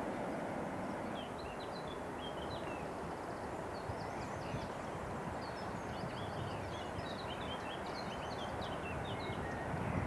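Small birds chirping and twittering in quick, scattered high calls over a steady low background rumble.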